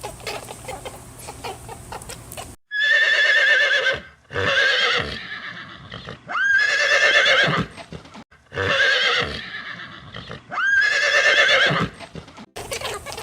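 A horse whinnying repeatedly: about five loud, high, shaking calls, each ending in a falling note, starting a couple of seconds in.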